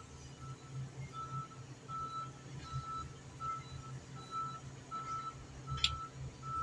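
A vehicle's reversing alarm beeping steadily at one pitch, about four beeps every three seconds, over a low engine rumble. A single sharp metallic click sounds near the end.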